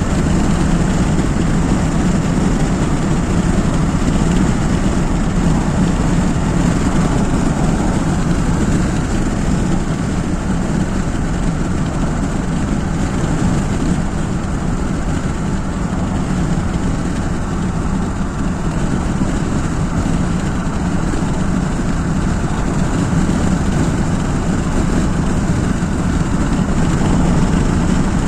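A car driving along a highway, with steady engine and road noise.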